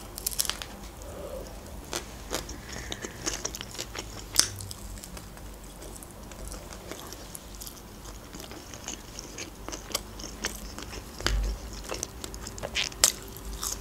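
Close-up eating sounds: a bite into a shawarma wrap, then chewing with scattered crisp clicks and mouth sounds. A soft low knock comes a little after eleven seconds.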